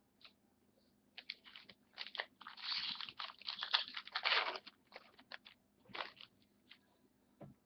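Crinkly packaging being handled while trading cards are opened: a run of crackling, rustling crinkles from about a second in until nearly five seconds in, then a few light clicks and one more short rustle near six seconds.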